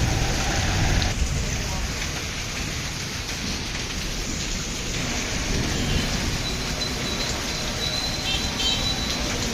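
Heavy rain falling steadily on the street and surrounding surfaces, an even hiss with no breaks.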